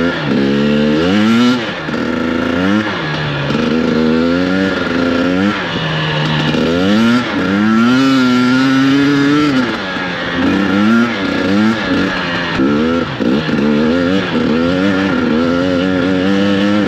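Two-stroke 2021 KTM 250 XC-W dirt bike engine being ridden hard, the revs rising and falling again and again, a swell every second or two as the throttle is opened and closed.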